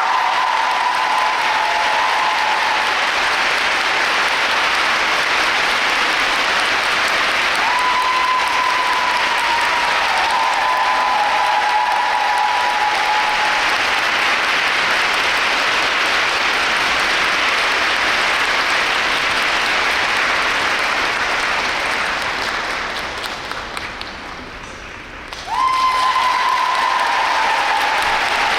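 Large arena audience applauding steadily. The applause sinks away about 22 seconds in, then comes back suddenly.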